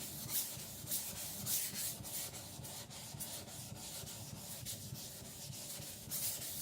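Steel cleaver blade being rubbed flat back and forth on a Naniwa Professional 400 whetstone in repeated grinding strokes, thinning the sides of the blade under firm, moderate pressure.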